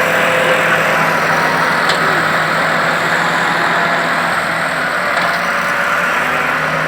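Tractor diesel engine running steadily with an even hum.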